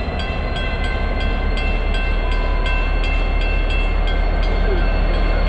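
Pan Am Railways freight train rumbling as it approaches, slowly growing louder, with a grade-crossing bell ringing in rapid, even strokes, about three or four a second.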